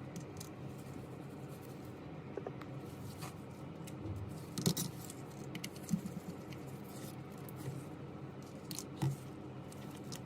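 Small hand tools clicking and scratching during work on a phone, a few sharp clicks standing out in the second half, over a steady low hum.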